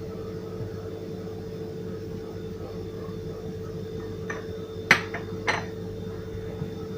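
A few short clinks of kitchenware, dishes or glass knocking together, about four in quick succession around the middle, over a steady low hum.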